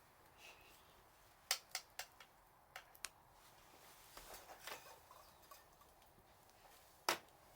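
Scattered sharp clicks and light knocks, about seven in all, the clearest about a second and a half in and near the end.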